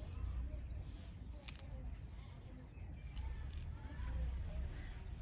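Small birds chirping in short sharp chips, the loudest about a second and a half and three and a half seconds in, with a few soft gliding calls near the end, over a steady low rumble.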